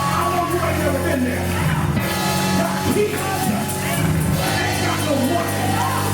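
Gospel church music: held low chords changing every second or two, with a voice singing over them.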